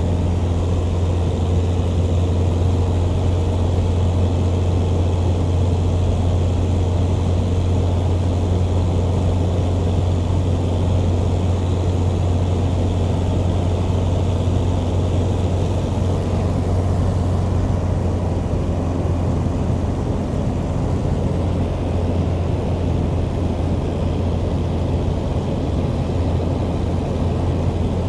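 Legend Cub's single piston engine and propeller running steadily, a deep, even drone with no change in power.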